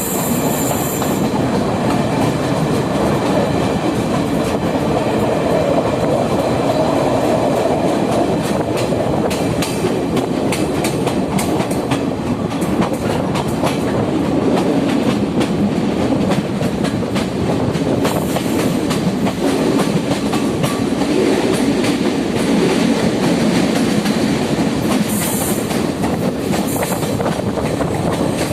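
Train running on rails: a steady rumble and clatter of wheels over the track, with brief high-pitched wheel squeals just after the start, about two-thirds of the way through, and twice near the end.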